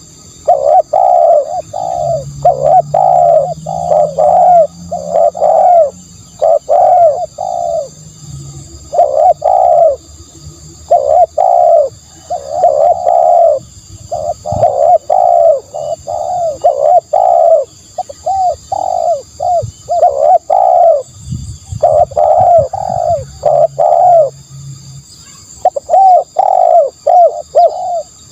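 Spotted dove cooing over and over: quick runs of short coo notes in phrases with brief pauses between them, as in a dove lure call.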